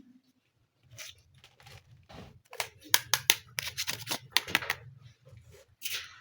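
Small plastic pieces of a miniature toy kitchen play set handled close to the microphone: a quick run of sharp clicks and taps, thickest in the middle, over a low handling rumble.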